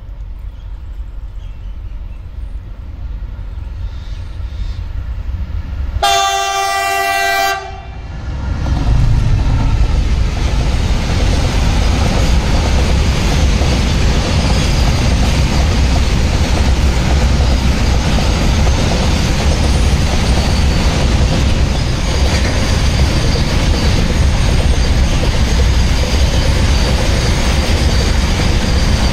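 A GE WDG-6G 16-cylinder turbocharged diesel-electric locomotive approaches with a rumble that grows steadily louder. About six seconds in it sounds one loud horn blast lasting about a second and a half. It then passes, and a long train of container flat wagons rolls by with a loud, steady rumble and wheel clatter.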